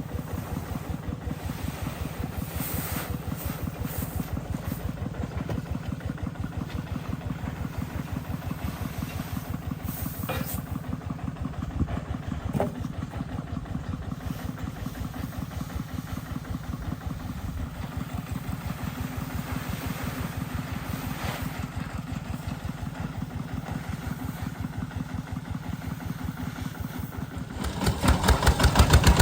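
An engine running steadily with a fast, even beat, getting clearly louder near the end as it comes closer or opens up.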